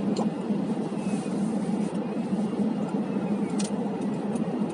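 Steady low drone of a car heard from inside the cabin while driving, engine and tyre noise running evenly, with a faint click about three and a half seconds in.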